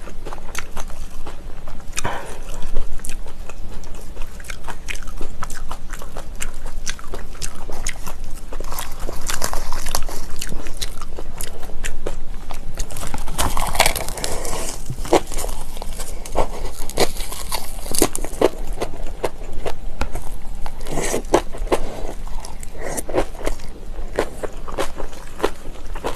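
Close-miked mukbang eating: wet chewing and crisp crunching of kimchi with rice, in irregular mouthfuls.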